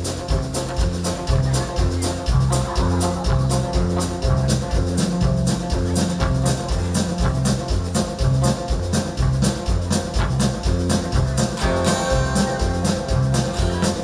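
Live country band playing an instrumental intro: guitar and bass over a steady beat of about four strokes a second.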